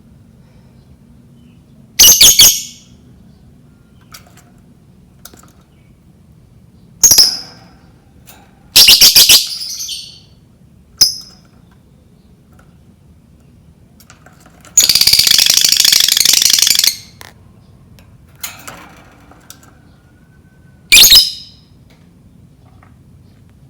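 Lovebird calling: several short, shrill, piercing screeches, some with a fast stutter, and one long rapid chattering trill of about two seconds in the middle.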